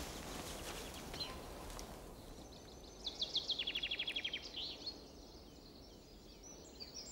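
A small songbird singing in the pine forest: a few quick high chirps, then a fast even trill about three and a half seconds in, followed by scattered chirps, over a steady outdoor background hiss.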